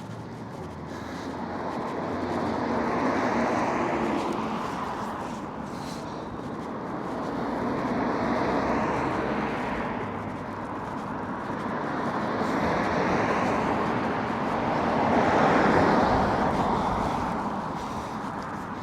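Cars passing one after another on a road, four in turn, each one's tyre and engine noise swelling and then fading; the last, late on, is the loudest.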